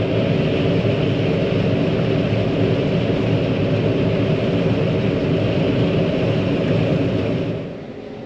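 Heavy farm machinery running hard: a loud, steady engine drone with a rushing noise over it, cutting off abruptly near the end.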